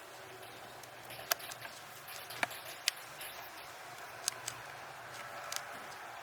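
About five short, sharp taps or clicks at uneven intervals over a steady background hiss.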